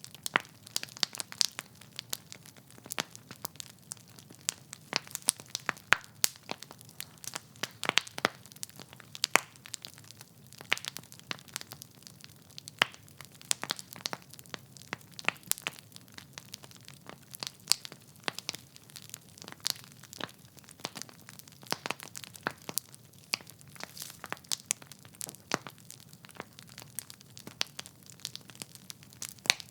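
Wood fire crackling in a fireplace: dense, irregular pops and snaps of burning logs, several a second, over a faint low hiss.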